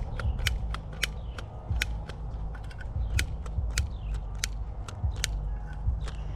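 Irregular sharp clicks and ticks, roughly one or two a second, over a low steady hum.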